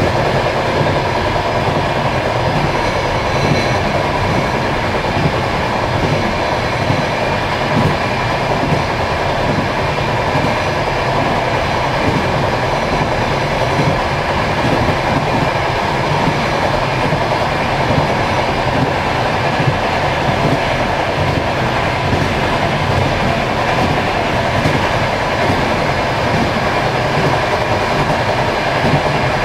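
Passenger train running along the track, heard from inside its last carriage: a steady, even noise of the wheels on the rails.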